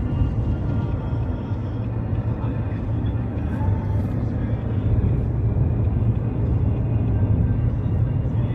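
Car driving along a highway: a steady low rumble of engine and road noise, with faint music over it.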